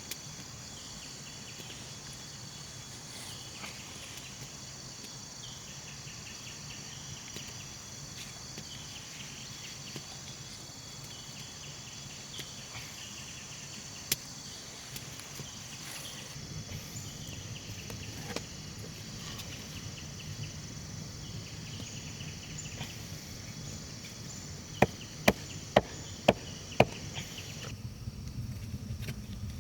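Insects chirring in a steady high-pitched drone over a low rumble. There is a single sharp knock about halfway, and a quick run of about six sharp knocks near the end, after which the insect sound cuts off suddenly.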